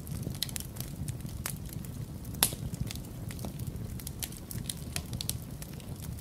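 Wood fire crackling in a fireplace: irregular sharp pops and snaps, one louder snap about two and a half seconds in, over a low steady rumble.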